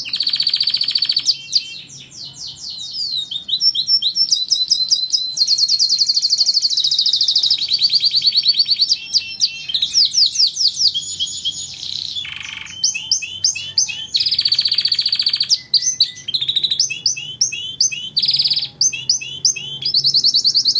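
Domestic canary singing a long, almost unbroken song of fast trills, rapid repeated chirps and sweeping notes, with only brief pauses.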